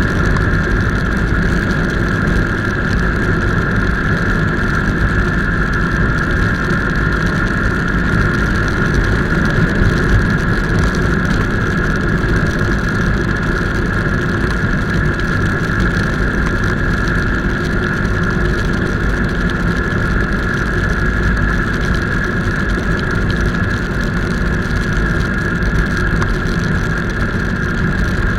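Motorcycle running at a steady speed while being ridden, a low rumble under a steady high tone, with no change in engine speed.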